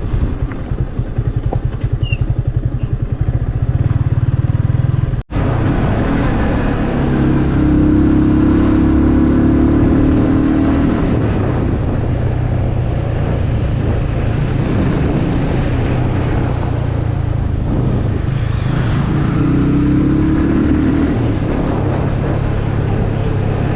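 A motor vehicle's engine running steadily along a road, with road rumble; the sound breaks off for an instant about five seconds in.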